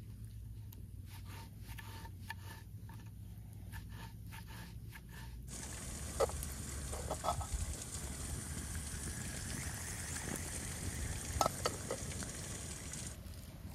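Food sizzling as it fries in hot oil, an even hiss with a few sharp pops. The sizzle cuts in suddenly about five seconds in and stops just before the end; before it there is only a faint low hum with light ticks.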